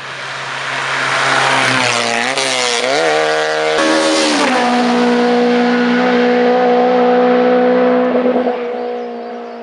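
Hillclimb race car approaching and running past at full throttle. The engine note climbs and drops through quick gear changes, then holds a steady high pitch and fades near the end.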